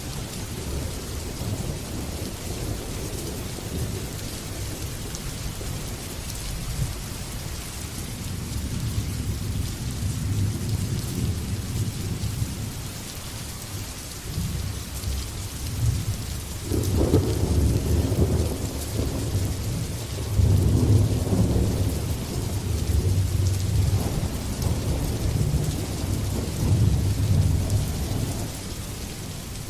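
Steady heavy rain with rolling thunder. The thunder rumbles low and builds about halfway through, with its loudest peals from about 17 to 28 seconds, then eases near the end.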